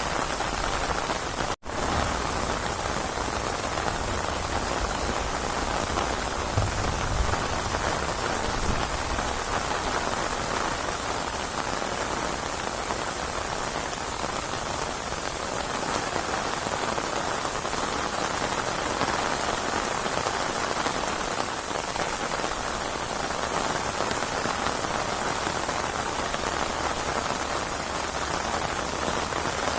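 Steady heavy rain pattering on surfaces, an even hiss of drops. The sound cuts out for an instant about a second and a half in, then resumes.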